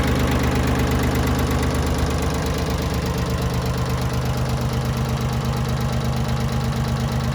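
Yanmar YM1720 compact tractor's diesel engine running steadily with an even, pulsing beat.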